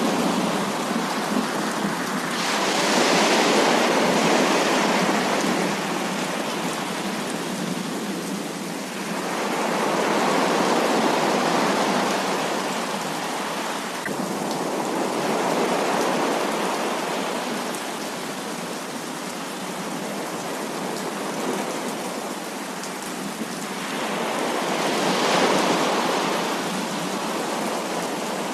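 Heavy rain falling in a steady hiss that swells louder and eases off again several times, like gusts of downpour.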